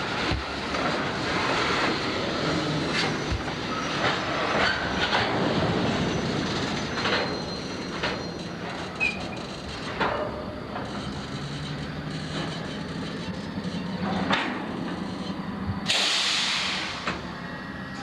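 Freight train rolling past, its wheels clicking over rail joints amid a steady rumble, with a low steady hum coming in past the halfway mark. A loud burst of hiss about 16 seconds in lasts about a second.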